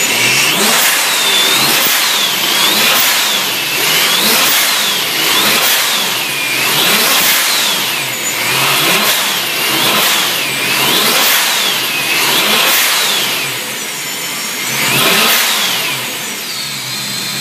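Supercharged 4.0-litre S65 V8 of a BMW E92 M3 being blipped repeatedly in free rev, about once a second, with the supercharger whine rising and falling with each blip. One bigger rev comes near the end, then it settles back to idle.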